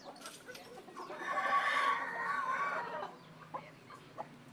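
Chickens clucking, with one louder drawn-out call lasting about two seconds from about a second in.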